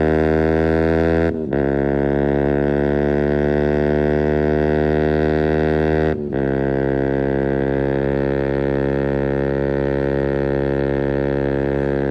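Keeway RKF 125's single-cylinder four-stroke engine through a Mivv exhaust with the dB killer removed, accelerating hard. It shifts up twice, about a second and a half in and about six seconds in, and the revs climb steadily after each shift.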